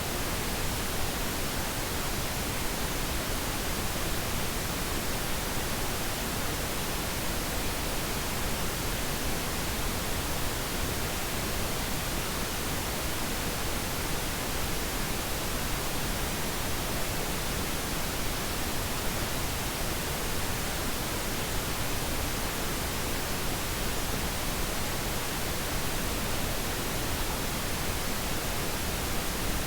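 Pink noise: a steady, even hiss spread across the whole range, unchanging throughout, played as a sleep aid.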